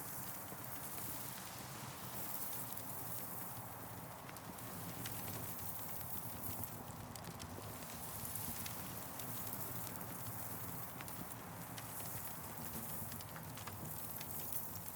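Campfire crackling, with scattered sharp pops from the burning wood, over a steady hiss of wind through the trees that swells and eases every few seconds.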